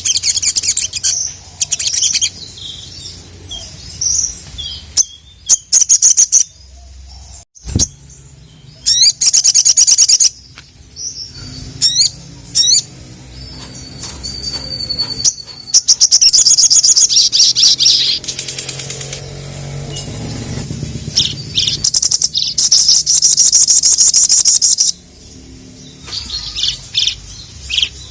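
Little spiderhunter (sogok ontong) singing in loud bouts: high-pitched rapid chattering trills, repeated again and again with abrupt breaks between them.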